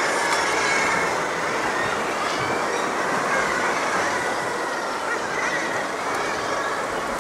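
Sea water washing and surging around a kayak and rocks: a loud, steady rush.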